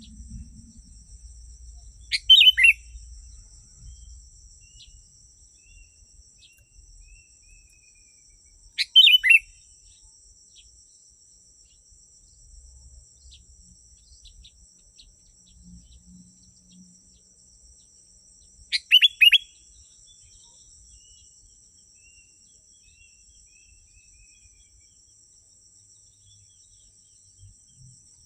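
Sooty-headed bulbul calling: three short, loud phrases several seconds apart, with fainter chirps between them. A steady high-pitched drone runs underneath.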